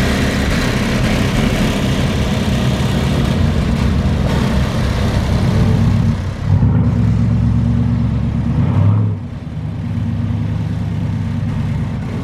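A car engine running close by, steady and loud, its pitch shifting about six seconds in before the sound drops suddenly about nine seconds in.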